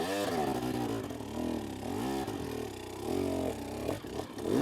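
Two-stroke 250 dirt bike engine revving in surges, the pitch swinging up and dropping back about every two seconds as the rider works the throttle and clutch up a steep climb.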